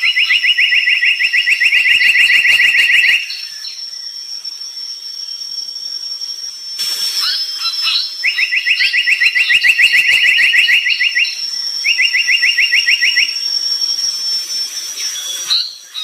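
Brown tali pocong bird singing: a rapid, buzzy trill of evenly repeated notes, about ten a second, given three times, the last run shorter, with scattered short chirps in between. A thin steady high-pitched tone runs underneath.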